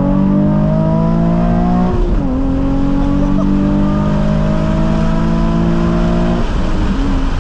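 2007 Nissan 350Z HR's VQ35HR V6 with a Megan Racing drift spec exhaust accelerating hard. The revs climb, drop at a gear change about two seconds in, climb again, then fall about six seconds in.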